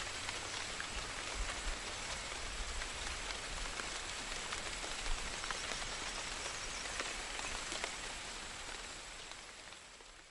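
Steady rain falling, with scattered drop ticks in the constant patter, fading out over the last couple of seconds.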